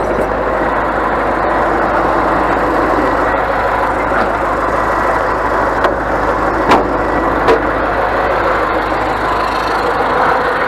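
Scania truck's diesel engine running steadily, with two short sharp knocks about seven seconds in.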